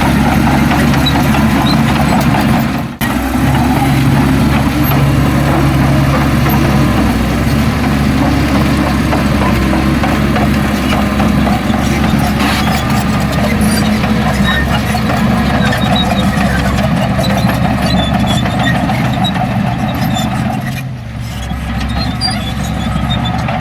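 Heavy diesel earthmoving machinery running steadily, with a brief drop in level about three seconds in and another near the end.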